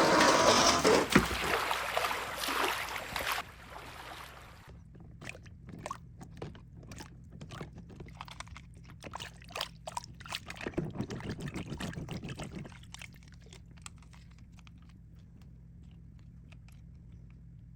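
Water poured over a mud-covered toy monster truck for the first few seconds, then a run of small drips and clicks with a short splash of trickling water midway.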